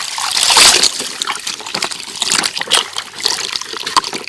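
Water splashing and trickling as a small toy vehicle is rinsed by hand. The sound is loudest in the first second, then goes on as lighter, irregular splashes and drips.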